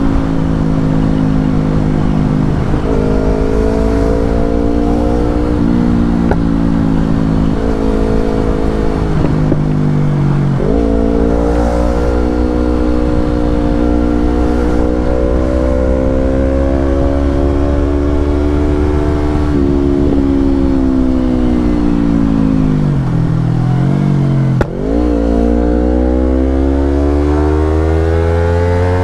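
Yamaha R25's 250 cc parallel-twin engine through a Brave aftermarket exhaust, under way. Its pitch climbs and drops again and again with gear changes, falls steadily about twenty seconds in, dips briefly, then climbs again near the end.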